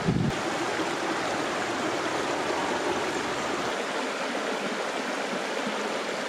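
Flowing stream water: a steady, even rushing. A brief wind rumble on the microphone comes right at the start.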